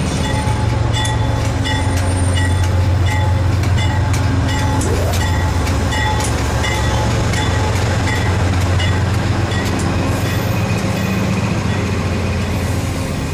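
Metrolink diesel-hauled commuter train moving along the platform: a steady low locomotive engine drone with scattered clicks, while a bell rings about twice a second.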